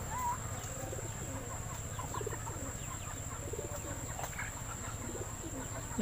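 Faint, scattered short bird chirps and calls, with a steady high whine running underneath.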